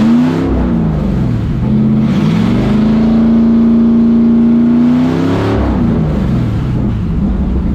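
Plymouth Belvedere drag car's Dodge HurriCrate engine revving, its pitch swinging down and up a few times, then climbing and holding steady for about two seconds before dropping back.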